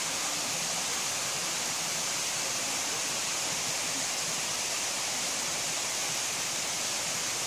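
Waterfall: a steady, hissing rush of falling water that does not change.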